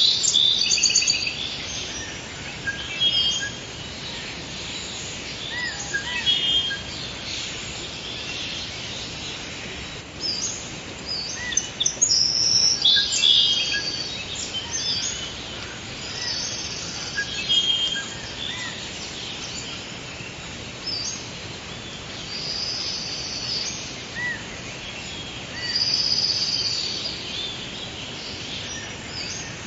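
Forest ambience: several songbirds singing and chirping in short repeated phrases over a steady background hiss.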